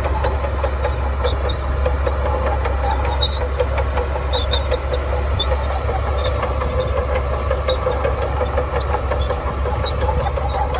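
Shantui bulldozer's diesel engine running steadily under a strong low hum, with a fast, continuous clatter of small knocks over it.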